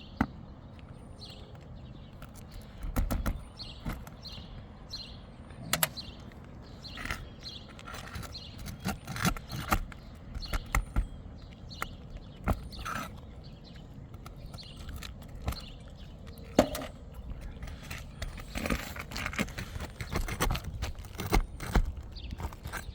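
Hand tools working under asphalt roof shingles to loosen and pull the nails holding a damaged shingle: irregular clicks, taps and scrapes.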